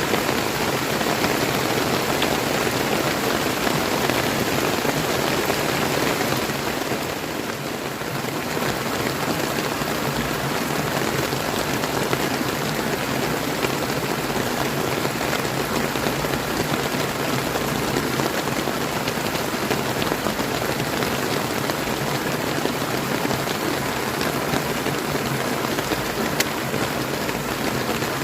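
Steady rain falling together with a clear river's running water: an even, dense hiss that dips briefly about seven seconds in.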